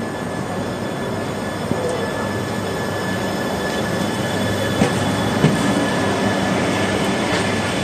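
Shinkansen train of coupled E3 and E2 series sets pulling out of the platform: a steady running noise with a thin whine and a few clicks from the wheels, growing slightly louder.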